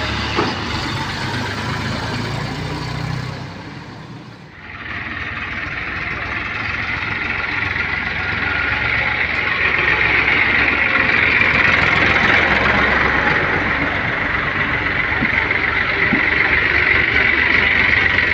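Eicher 333 tractor's three-cylinder diesel engine running hard while the tractor tries to haul its sand-loaded trolley out of the sand. The sound dips briefly about four seconds in, then grows louder and holds steady.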